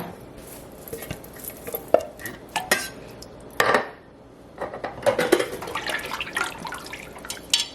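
A metal utensil clinking, knocking and scraping against a cooking pot while tomatoes are added to soup. There is one sharper knock about three and a half seconds in, and a busier run of small clinks near the end.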